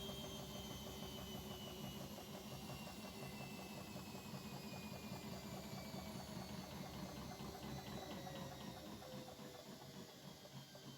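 Bosch Maxx WFL 248Y washing machine's drum motor slowing down, its whine falling slowly and steadily in pitch over a low mechanical hum, growing quieter near the end.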